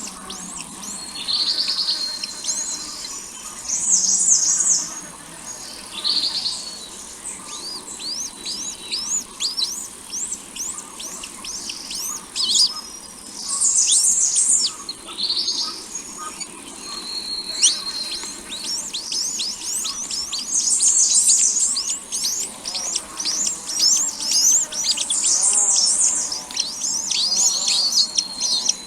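Small birds chirping: many quick, high-pitched cheeps and short buzzy bursts that come and go every few seconds.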